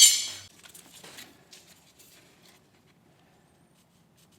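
A sharp metallic clatter at the start, like a metal tool being set down, then a few soft scrapes and taps from handling a drywall piece, fading away after about two seconds.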